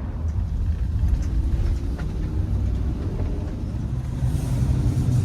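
Steady low rumble of a car or work van driving along, heard from inside the cabin.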